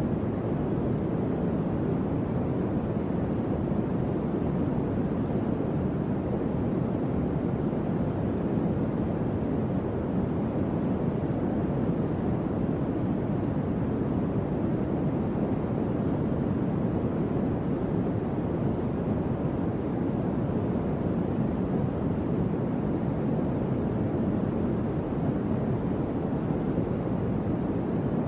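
Electric fan running steadily: a soft, even whoosh of moving air, weighted low, with no hum, clicks or change in speed.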